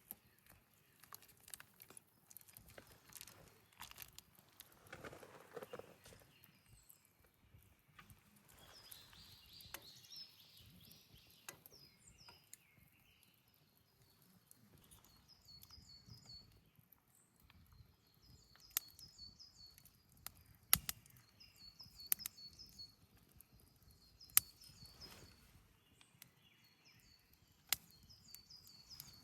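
Small bird singing short chirping phrases over and over, with scattered sharp clicks and taps of outdoor activity at a campsite.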